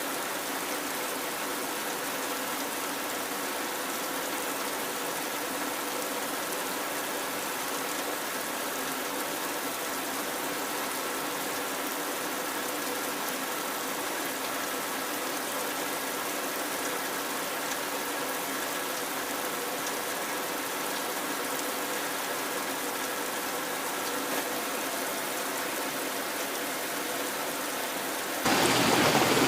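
Heavy rain falling steadily, an even hiss of water. About a second before the end it cuts abruptly to a louder rushing water sound.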